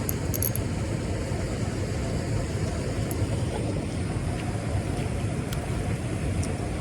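Steady low rumbling noise with no breaks, plus a few faint ticks.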